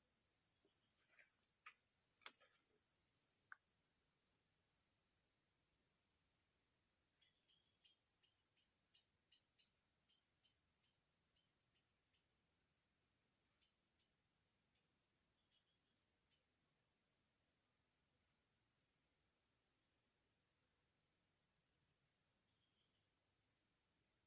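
Steady high-pitched buzzing of insects at a riverside, with a run of short chirps at about two a second in the middle and a single faint click near the start.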